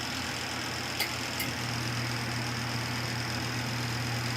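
Portable mini twin-tub washing machine's wash motor running with a steady hum while it agitates a load, with two light clicks about a second in.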